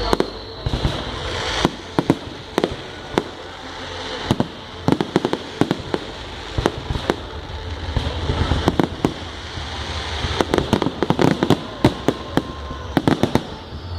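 Fireworks going off: many sharp bangs and cracks, some in quick rapid clusters, over a steady hiss and rumble.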